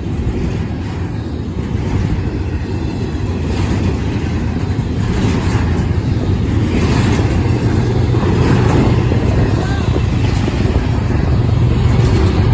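Freight train passing close by at speed: a steady rumble and clatter of steel wheels on the rails that grows louder, joined about halfway by the low hum of a CSX locomotive's diesel engine as the mid-train distributed power unit comes past.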